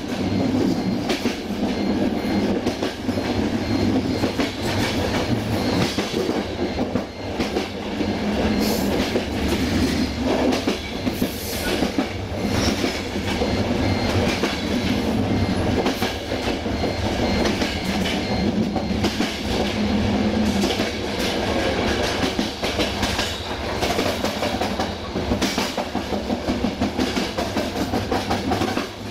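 Passenger train coach rolling at speed over jointed track: a steady rumble with the clickety-clack of wheels knocking over the rail joints.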